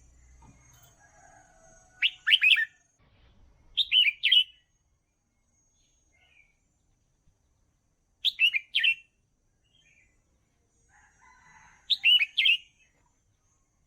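Red-whiskered bulbul singing: four short phrases of three or four quick notes each, a few seconds apart.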